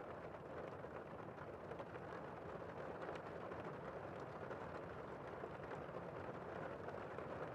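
Heavy rain heard from indoors: a steady, dense patter and hiss of rain on the roof and windows, with no breaks.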